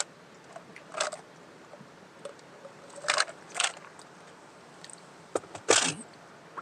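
Snack food and its packaging being handled and eaten: a handful of short, sharp rustling noises spaced a second or two apart, the loudest near the end.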